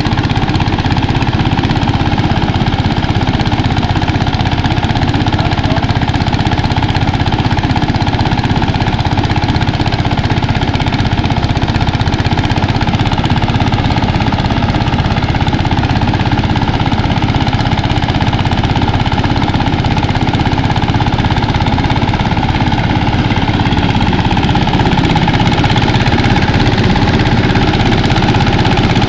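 Engine-driven mini rice thresher running steadily while paddy is fed into it for threshing: a loud, even machine noise with a fast beat.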